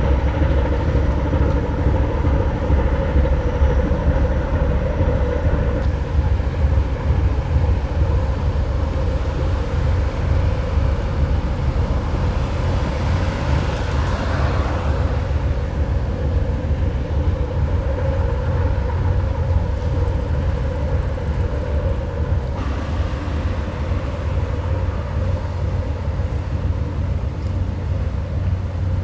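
Steady low rumble of a passing ferry's engines with a faint hum. A rushing sound swells and fades about halfway through.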